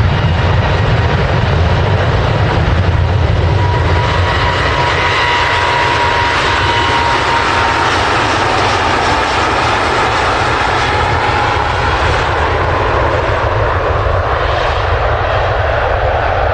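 Hawker Beechcraft 400XP business jet under takeoff power: loud, steady jet blast from its twin turbofans, with a high whine running through it that drifts slightly in pitch. Said to sound like a fighter jet.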